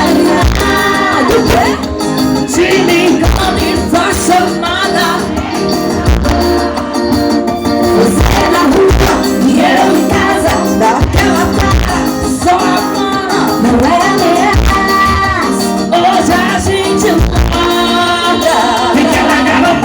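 Forró band playing, with a singer's voice over the music and a regular bass beat.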